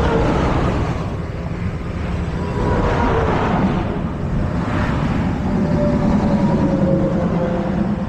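Road traffic passing close by over a steady engine rumble. Two vehicles swell past, about three and five seconds in.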